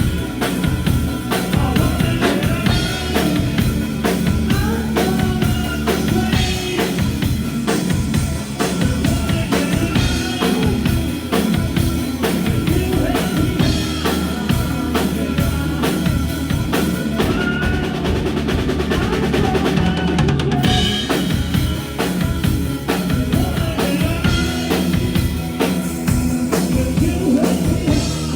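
Live rock band playing an instrumental passage without vocals: a drum kit drives a fast, dense beat with bass drum and snare over steady bass and pitched instruments.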